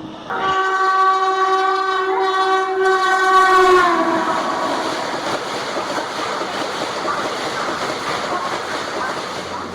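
An Indian Railways express locomotive's horn sounds for about three and a half seconds and drops in pitch as the train passes at speed. Then comes the steady rush and rattle of the coaches going by over the track.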